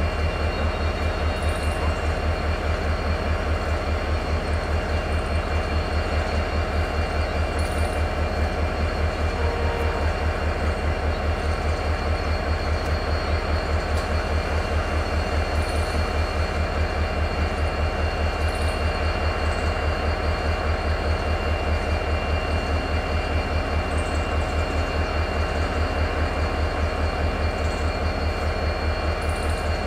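A train at the railway line, running steadily with an even, fast low pulsing that does not change, and a few steady high tones over it.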